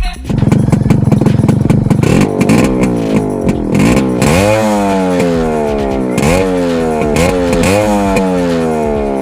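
Yamaha RX 135's 132cc air-cooled two-stroke single-cylinder engine being revved. It comes in suddenly with a rough low running note, then gives repeated throttle blips, each a quick rise in pitch that falls slowly back.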